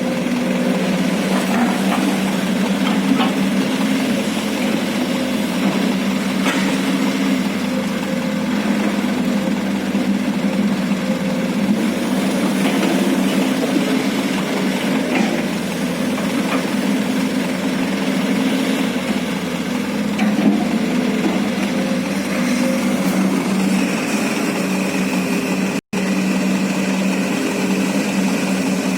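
Excavator's diesel engine running steadily, with a few short knocks scattered through; a higher steady whine joins near the end.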